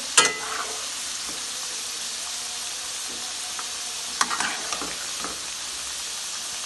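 Sliced taro root (arvi) sizzling steadily as it fries in hot oil in a wok. A metal slotted spatula knocks sharply against the pan just after the start and clinks again about four seconds in as the fried slices are scooped out.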